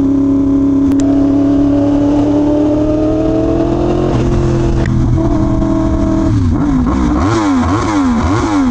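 Yamaha YZF-R1M's crossplane inline-four engine running at a steady pitch that climbs slowly, with a gear change about four seconds in. From about six seconds in it is revved up and down in several quick throttle blips.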